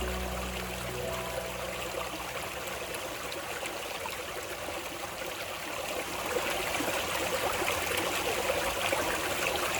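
Small waterfall and shallow stream running over mossy stones with a steady splashing rush; a music track fades out in the first second or so, and the water grows a little louder about six seconds in.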